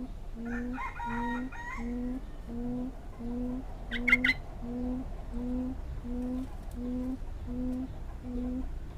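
A quail calls with its beak closed: a steady series of about thirteen low, short hoots, roughly one every 0.7 s, each rising slightly, stopping shortly before the end. Other small birds chirp about half a second to two seconds in, with one sharp loud chirp about four seconds in.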